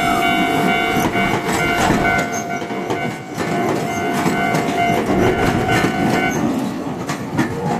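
Train running on rails, its wheels clicking over the rail joints, with a steady high tone that stops about six seconds in.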